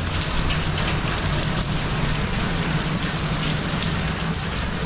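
Steady heavy rain with a dense patter of drops hitting nearby surfaces, over a steady low hum.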